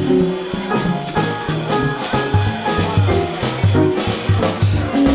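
Live jazz band playing an instrumental passage in swing time: a walking bass line under chords and melody, with drum kit and cymbals.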